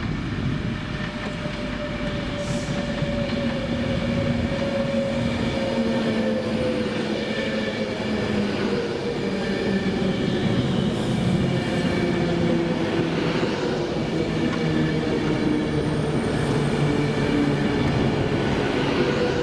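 Passenger train moving at a station, a steady motor hum with several tones that slowly fall in pitch as it grows gradually louder, with a few faint high wheel squeaks.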